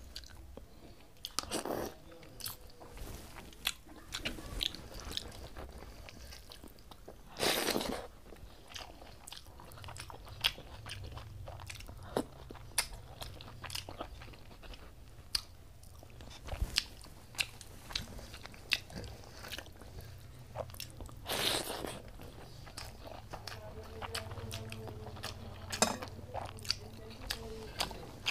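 Close-up eating by hand: chewing mouthfuls of rice mixed with kadhi and saag, with many small sharp mouth clicks and a few louder, longer mouth noises about 2, 8 and 21 seconds in.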